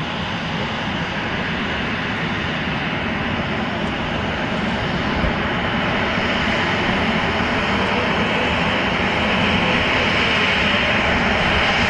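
Airliner engine noise, a steady rushing rumble that grows gradually louder.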